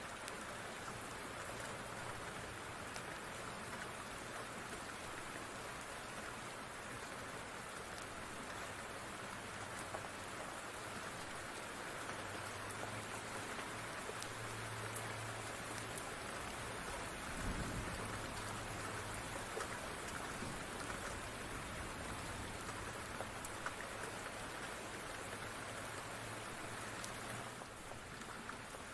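Steady rain falling, with a low rumble through the middle stretch and a brief low thump just past the middle.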